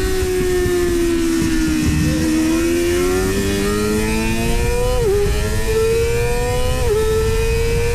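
Inline-four supersport motorcycle engine at track speed, over heavy wind noise. The engine note falls for about two seconds as the bike slows, then climbs steadily under acceleration, with brief dips about five and seven seconds in as it changes up a gear.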